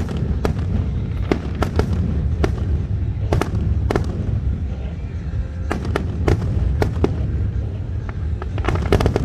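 Fireworks show: a dozen or more sharp bangs and pops at uneven intervals over a constant low rumble.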